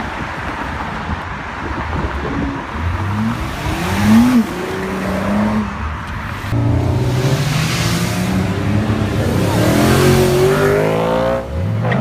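High-performance car engine revving, with a short rev about four seconds in, then, after an abrupt cut, a louder run where the engine's pitch climbs steadily as it accelerates.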